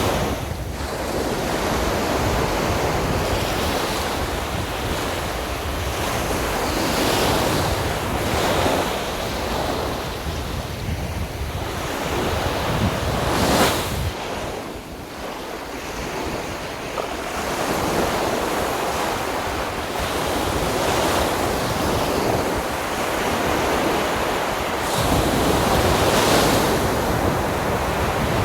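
Sea waves breaking and washing up on a beach, swelling and ebbing every few seconds, with one wave crashing louder about halfway through. Wind buffets the microphone with a low rumble underneath.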